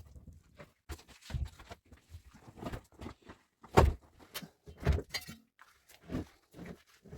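A series of irregular knocks and thuds, the two loudest about four and five seconds in.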